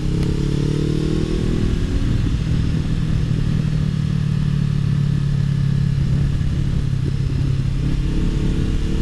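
2013 Honda CBR500R's parallel-twin engine running under way at a steady speed. Its pitch eases down over the first couple of seconds and climbs a little near the end.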